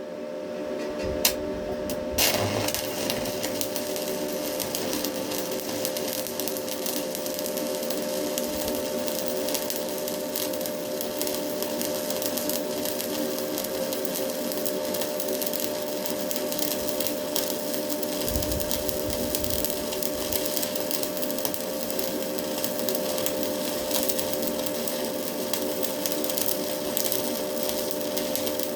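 Stick (arc) welding with a Hilco electrode. The arc is struck about two seconds in, then crackles and sizzles steadily as a weld bead is run, over a steady hum.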